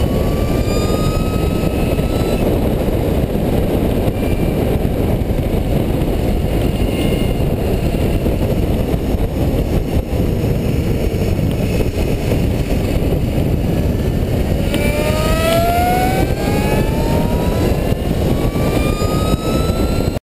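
Steady wind rush over an onboard camera at racing speed, with the high whine of electric drive motors rising in pitch as they accelerate, clearest over the last few seconds. The sound cuts off abruptly just before the end.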